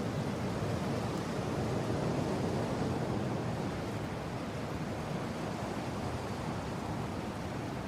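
Steady deep rushing of strong mountain wind, swelling a little a couple of seconds in and then easing slightly.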